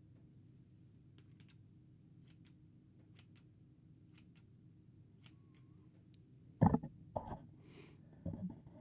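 Faint scissor snips at the hair, short thin clicks about once or twice a second over a low steady hum. Near the end they give way to a few louder knocks and rustles of handling.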